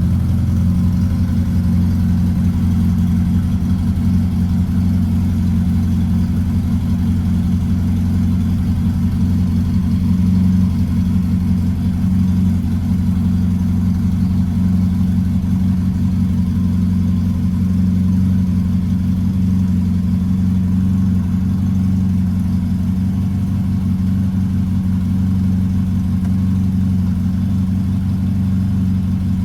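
1967 VW Beetle's air-cooled flat-four engine idling steadily while it warms up after a cold start.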